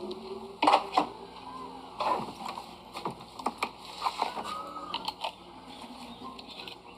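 Handling noise: a series of irregular clicks and knocks, the sharpest about a second in.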